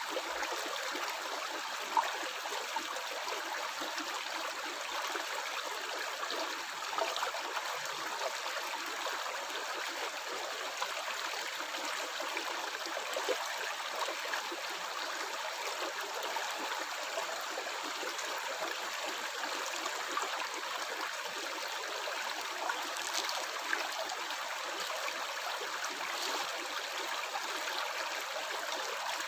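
Stream water flowing and gurgling steadily, with a few brief louder splashes.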